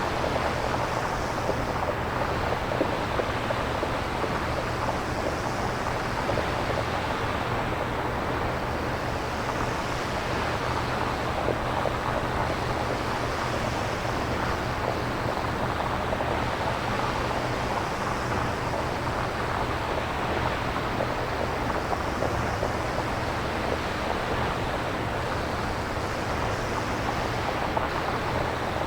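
Synthesized nature-style noise, made without samples: a steady rushing hiss over a low rumble, its upper part swelling and fading gently every few seconds.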